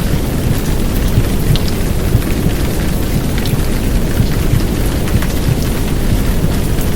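Heavy downpour of rain, a steady dense hiss, layered over a low, muffled womb sound of heartbeat and rushing rumble.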